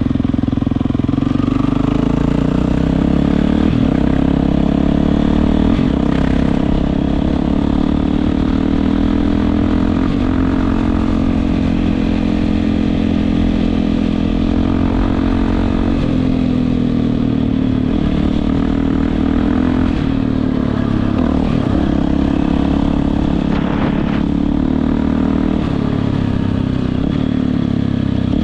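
Yamaha WR450F's single-cylinder four-stroke engine running through an Akrapovic exhaust, its note drifting gently up and down with small changes in revs.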